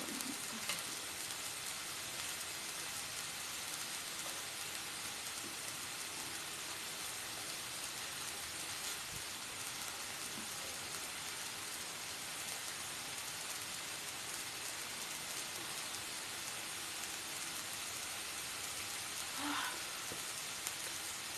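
Pork sizzling steadily in a non-stick pan: an even, continuous hiss of fat frying.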